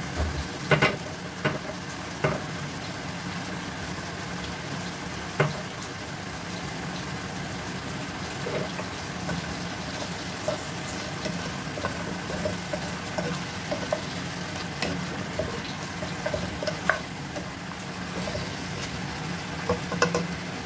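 Chicken pieces and ginger strips sizzling steadily in a pot while being stirred with a wooden spoon, with a few sharp clicks near the start and again near the end.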